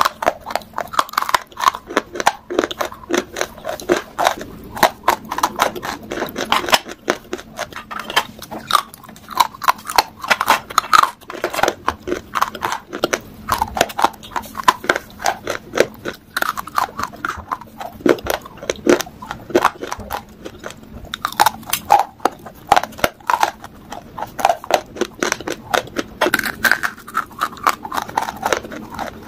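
A person chewing dry baked-clay pieces, with many sharp crunches in quick succession.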